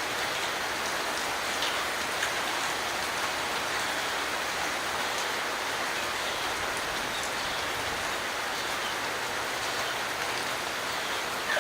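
Steady rain falling, an even hiss with a few louder individual drops.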